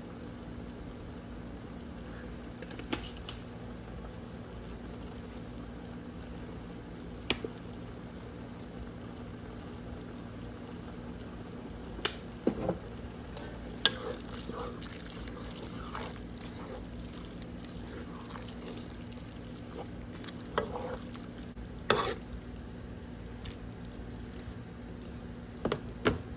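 Kitchen cooking sounds: scattered clinks and knocks of utensils and cookware, with several in a cluster about halfway through, over a steady background hum.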